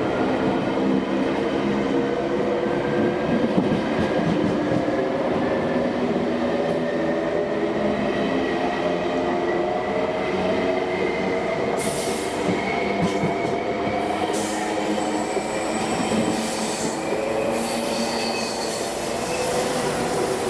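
Electric train moving through the station, its motor whine rising slowly and steadily in pitch as it gathers speed. From about halfway, hissing and squealing from the wheels on the rails joins in.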